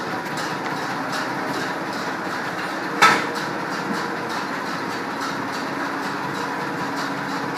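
Ford tractor engine running steadily with a faint regular ticking, and a single sharp metal clank about three seconds in.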